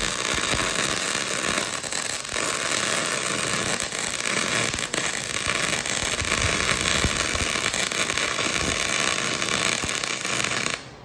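MIG welding arc crackling steadily as a bead is laid, cutting off suddenly near the end. The wind has blown away the shielding gas, leaving the weld black and dirty.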